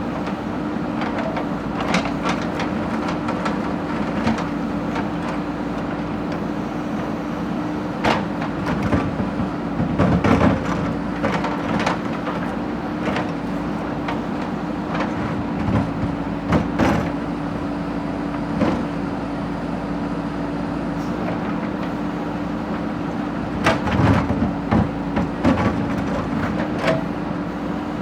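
Backhoe loader's diesel engine running steadily, with scattered metallic clanks and knocks from the machine working, several bunched together about a third of the way in and again near the end.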